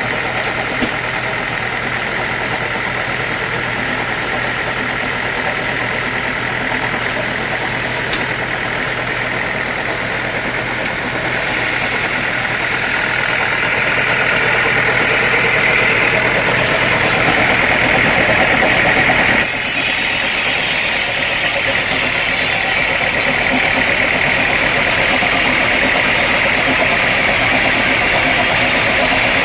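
Sawmill machinery running steadily, a continuous mechanical drone with a high whine that grows stronger partway through. The sound changes abruptly about two-thirds of the way in.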